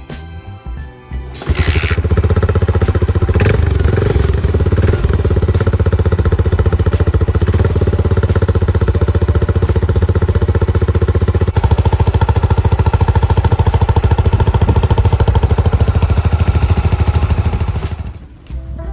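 Yamaha SR400's single-cylinder engine starting about a second and a half in and then running through a Daytona Cabton-style aftermarket muffler, an even, fast exhaust pulse. About halfway through it gets louder, and it fades out near the end.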